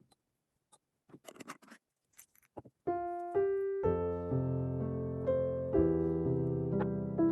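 A few faint clicks and light handling noises, then piano background music begins about three seconds in and plays on, with notes struck one after another.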